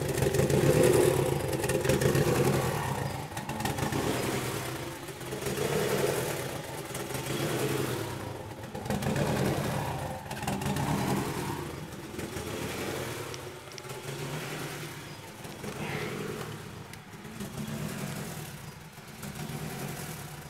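Turbocharged Honda Civic four-cylinder engine running, its sound swelling and fading every couple of seconds and easing off somewhat towards the end. It is running extremely rich, with fuel pouring out of the car.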